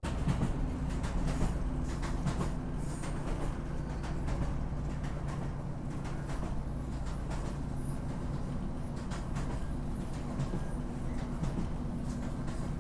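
Train running: a steady low rumble with a constant humming tone and scattered faint clicks.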